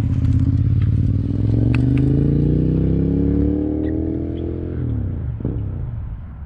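Motorcycle engine accelerating hard, its pitch climbing steadily for about four and a half seconds, then the throttle closes and the sound falls away and fades.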